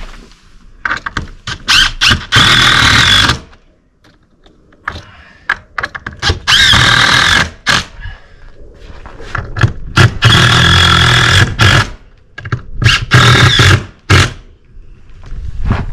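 Power drill driving screws, run in four bursts of about a second and a half, each with a steady whining motor note and a squeal.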